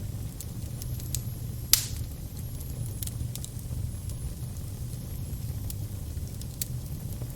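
Fire burning with a steady low rumble and scattered crackles, with one loud pop about two seconds in.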